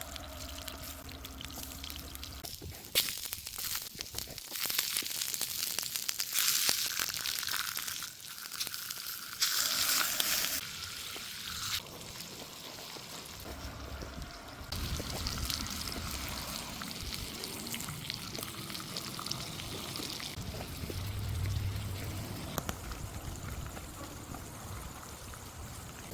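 Food sizzling over a fire, a steady hiss that grows louder and harsher for several seconds near the start, then settles.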